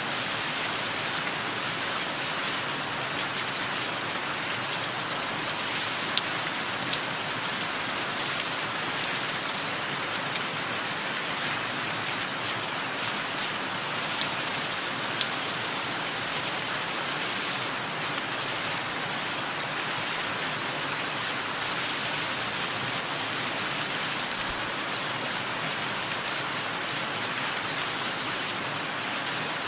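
Steady rain hiss with a bird calling over it: short, high, downward-sweeping chirps, mostly in pairs, repeated about every three to four seconds.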